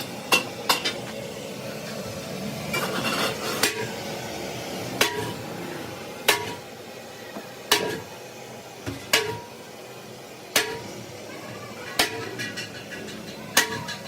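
Hammer blows on metal at a steady pace, about one every second and a half, each leaving a short metallic ring.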